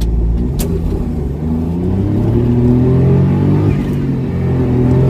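Smart Roadster's small three-cylinder turbo petrol engine running under way, its note rising as the car accelerates and then levelling off.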